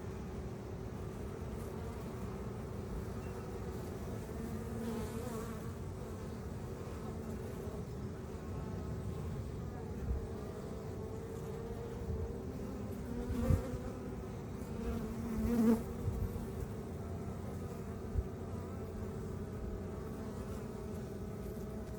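Honeybees buzzing in a steady, droning hum around the hive, with a couple of short, louder knocks past the middle.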